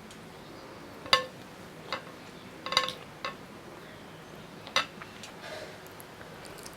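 Cutlery clinking against a dish, about five separate ringing clinks with the loudest about a second in.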